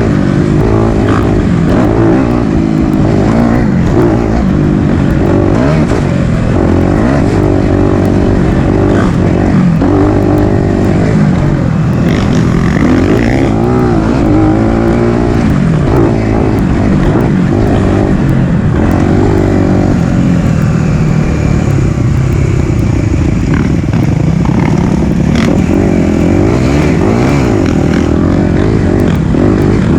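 Four-stroke dirt bike engine riding a trail, its revs rising and falling over and over as the throttle is opened and rolled off.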